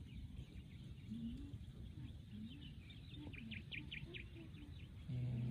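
A small bird chirping: a quick run of about six short high chirps about three and a half seconds in, over faint outdoor background noise and faint distant voices. A low steady hum comes in near the end.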